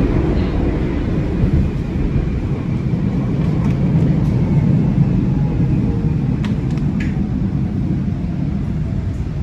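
Metro train running on the rails, a steady low rumble with a faint whine, and a few sharp clicks about two-thirds of the way through.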